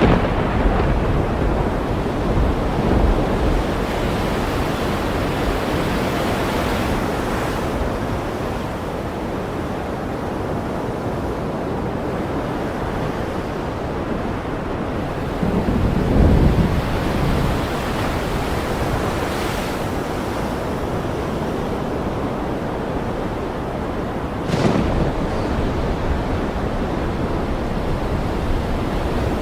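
Steady ocean surf with a constant rushing hiss. A low rumble of thunder rises about halfway through, and a sharper thunderclap comes near the end.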